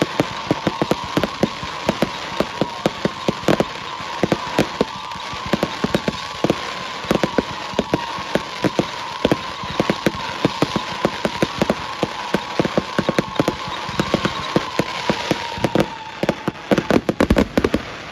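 Fireworks display: a dense, irregular string of crackling bangs over a steady whining tone. The tone fades near the end while a last flurry of louder cracks goes off.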